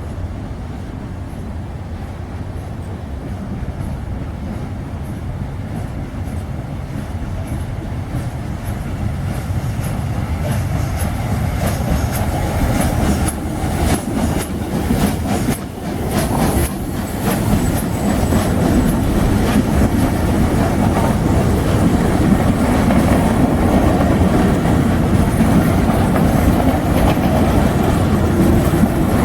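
Historic steam train running on the track, its wheels clicking over the rail joints, getting steadily louder, with a quick run of clicks about halfway through.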